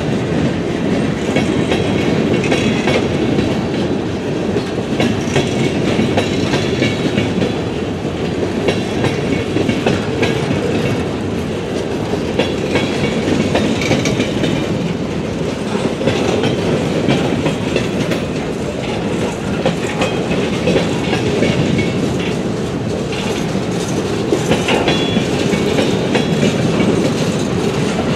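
Freight train's boxcars and centerbeam flatcars rolling past: a steady rumble of steel wheels on rail, with frequent clicks and clanks as the wheels cross the rail joints.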